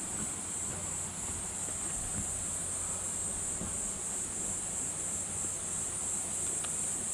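A chorus of insects trilling in one continuous high-pitched drone that does not let up.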